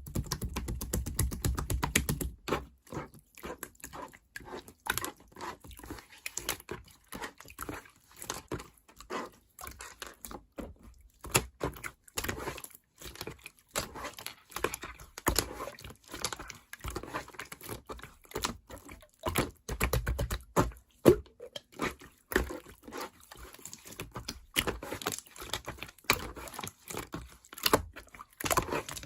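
Slime being pressed, squeezed and poked by hand, giving an irregular, constant stream of small clicks and pops.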